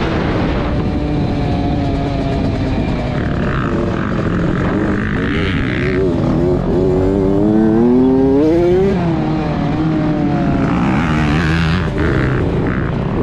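Motocross dirt bike engine running hard on a lap, its pitch climbing and dropping again and again as the throttle is worked and gears change, with a steady rushing noise underneath.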